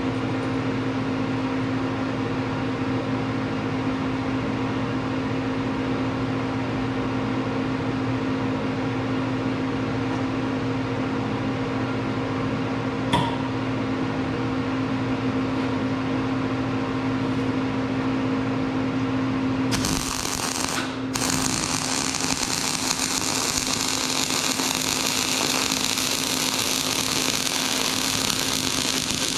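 Steady electrical machine hum with a low whine for about twenty seconds, then a loud steady hiss comes on and continues, briefly cutting out about a second after it starts.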